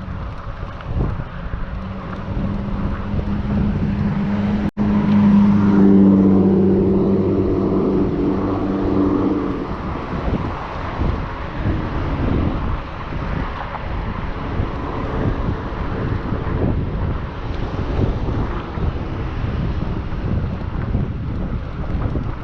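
Wind rushing over the microphone of a bike-mounted action camera while riding. A steady hum from a passing vehicle swells from about a second in, peaks around the middle, and fades by about ten seconds in. The sound cuts out for an instant just before five seconds.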